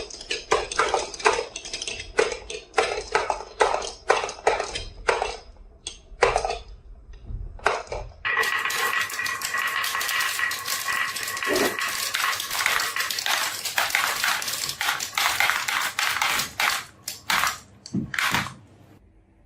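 Marbles clacking and rattling down a marble run: a quick run of separate clicks and knocks, then from about eight seconds in a dense, continuous clatter that stops shortly before the end.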